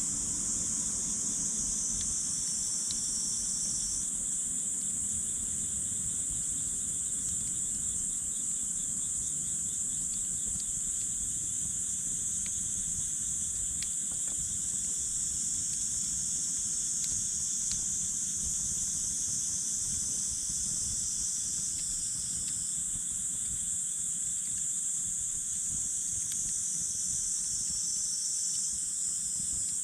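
A steady high-pitched chorus of insects, with a few faint pops and crackles from a wood campfire.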